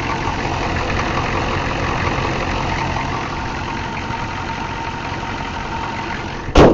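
The 6.5-litre turbo diesel V8 of a 1993 Chevrolet truck idling steadily, running smoothly without missing. A single sharp thump near the end.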